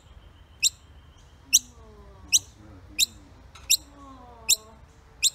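Baby bird chirping repeatedly: short, sharp, rising chirps, about one every three-quarters of a second.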